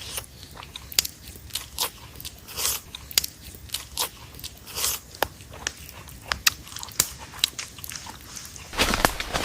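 Irregular sharp crunching and crackling clicks, several a second, with a few brief rustling swishes, growing louder and denser near the end.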